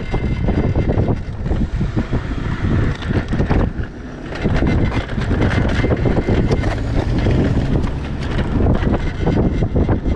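Wind buffeting the microphone of a rider on a moving electric scooter, a loud gusting noise that eases briefly about four seconds in.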